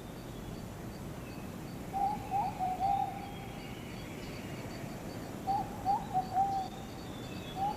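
Rainforest ambience: a bird calls a short phrase of low whistled notes twice, about two seconds in and again past the middle, starting a third at the end. Under it runs a faint, high, even pulsing of about three pips a second.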